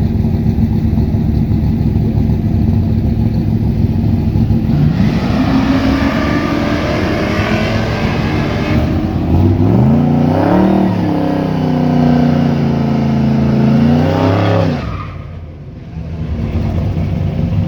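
A Tri-Five Chevy's engine rumbling steadily, then revving up about five seconds in. It runs hard with several rises and drops in pitch, and cuts off suddenly about fifteen seconds in. A steady engine rumble returns near the end.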